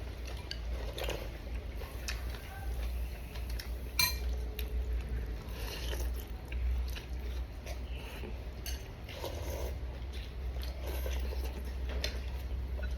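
Someone eating a bowl of bún riêu noodle soup: utensils clicking and clinking against the bowl now and then, with a sharper clink about four seconds in, and chewing sounds in between. A steady low hum runs underneath.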